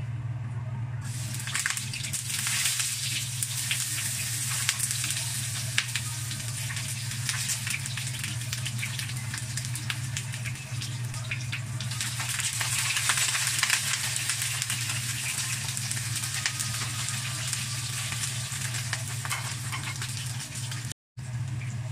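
Eggplant slices sizzling and crackling in hot oil in a wok as they are laid in one by one. The sizzle starts about a second in and grows louder around midway as more pieces go in, over a steady low hum. The sound briefly cuts out near the end.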